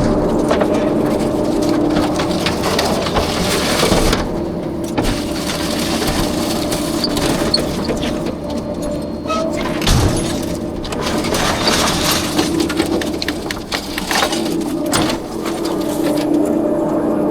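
Rear-loader garbage truck running with a steady mechanical hum that drops out briefly a few times, over scattered knocks and clattering of trash and metal.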